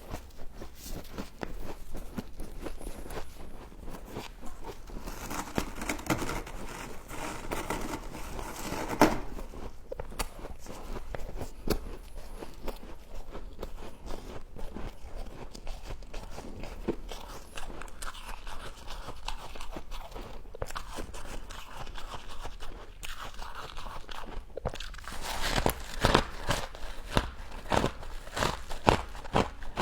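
Close-up crunching and chewing of frost: a dense, irregular run of crisp icy crunches as mouthfuls of frost are bitten and chewed, with one sharp louder crunch about nine seconds in and heavier crunching near the end.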